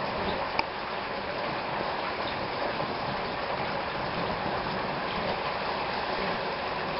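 Steady heavy rain pouring down in a thunderstorm, with a single sharp tick about half a second in.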